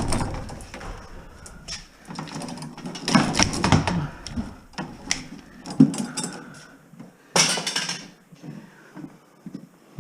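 Copper wire being cut and pulled out of stripped walls: irregular knocks, clicks and scraping, with one sharp hissing scrape about seven and a half seconds in.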